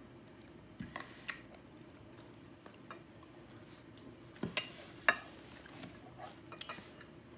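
A person eating: chewing and mouth sounds, with a few sharp clicks and taps scattered through, the loudest about five seconds in.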